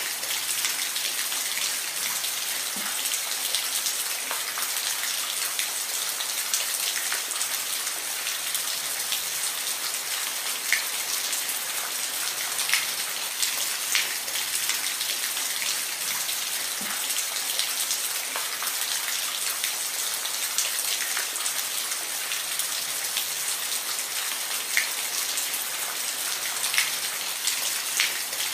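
Steady rain with individual drops ticking on a surface.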